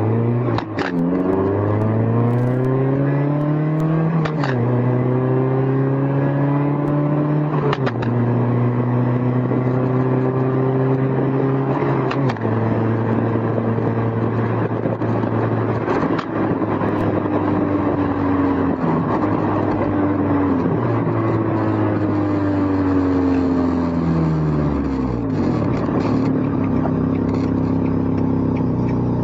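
Honda S2000's inline-four engine under way with the top down, heard from the passenger seat: the engine note climbs and drops sharply at upshifts about 4, 8 and 12 seconds in, holds steady, then falls away as the car slows and settles at a lower note near the end. Wind noise throughout, and scattered clicks from the loose recorder rattling on the seat.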